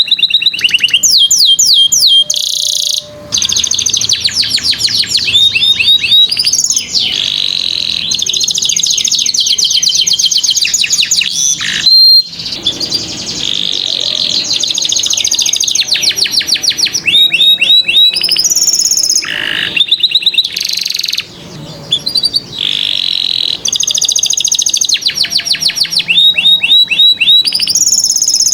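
Domestic canary singing a long, loud song of rapid trills and rolls, with brief breaks between phrases.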